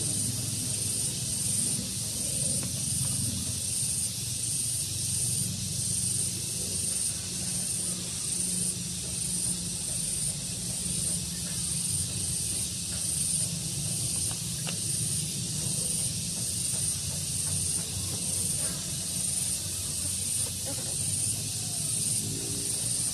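Daytime outdoor ambience: a steady high hiss that pulses about twice a second, over a low hum.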